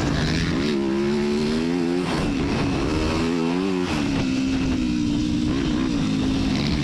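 Dirt bike engine running, its pitch rising and falling with the throttle, then holding fairly steady from about four seconds in.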